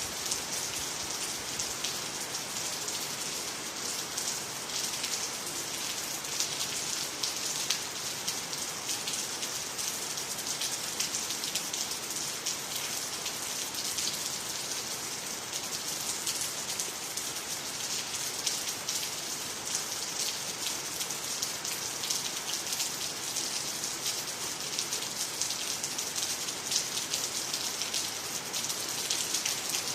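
Steady rain falling on water, trees and the ground, a continuous hiss dotted with many small drop impacts.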